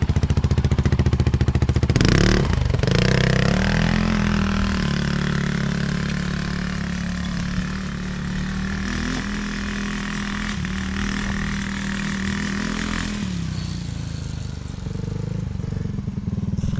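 Polaris RZR side-by-side engine idling, then revving up about two seconds in and running at a steady speed. Near the end it drops back to a pulsing idle.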